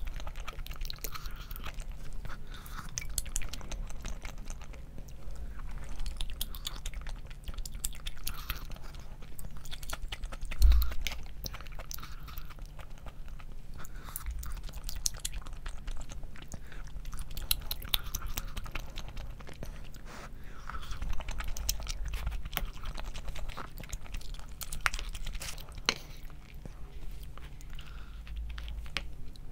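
A person chewing and biting food close to the microphone, with many small irregular clicks, over a low steady hum. One dull thump about ten seconds in.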